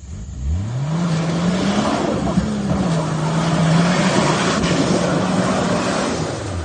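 Turbocharged 4x4's engine revving up hard about half a second in and held at high revs under load, with a rushing noise over it, then easing off near the end.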